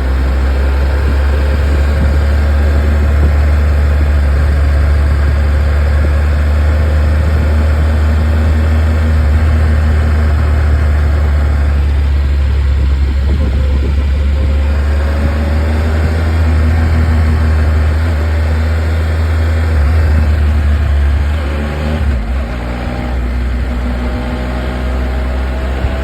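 Motorcycle engine running steadily under way, with a heavy low rumble. Near the end the level dips briefly, then the engine pitch climbs as it accelerates.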